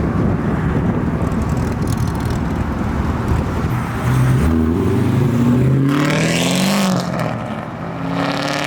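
A performance car's engine rumbling, then accelerating hard with its pitch rising in steps. The note drops sharply about seven seconds in and starts climbing again near the end.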